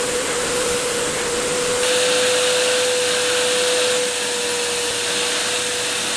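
Wet vacuum extractor running with a steady motor whine, sucking water back out of a fabric car seat; the suction hiss gets louder about two seconds in.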